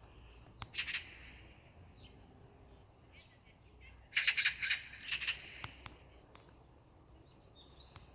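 Wild birds calling with harsh, rapidly pulsed squawks. There is a short burst about a second in and a longer series of calls between about four and five and a half seconds, over a faint steady background hiss.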